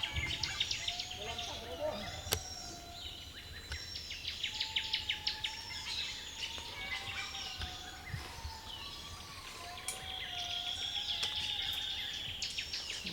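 Several birds calling at once, a mix of wavering whistled notes and fast trills, with a buzzy note about ten seconds in.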